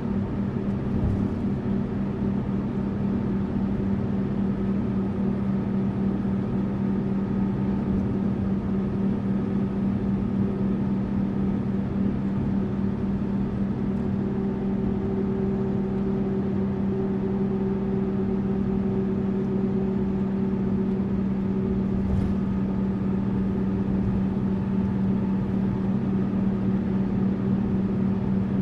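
Tourist bus running with a steady, unchanging engine drone and road noise, with a faint click or two.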